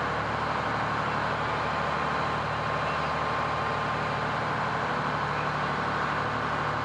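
Fire truck engine running steadily at a low, even idle, with an unchanging hum.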